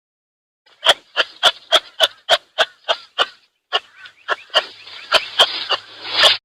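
An animal giving a rapid series of short, sharp calls, about three to four a second, with a brief pause midway.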